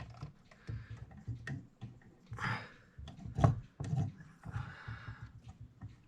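Irregular small clicks and taps of a mechanical clock movement's parts being handled and checked by hand, with low handling bumps and a couple of breaths.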